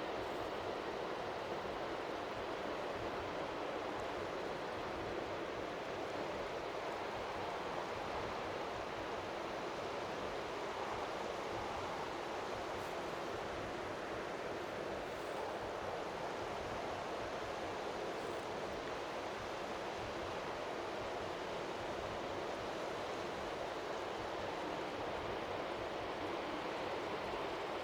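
Strong wind by the sea making a steady rushing noise, with faint waves lapping under it.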